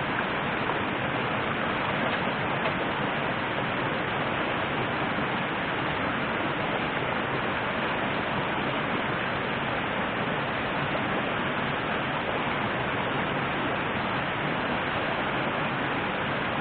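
Steady rush of river water flowing, an even noise with no breaks or changes.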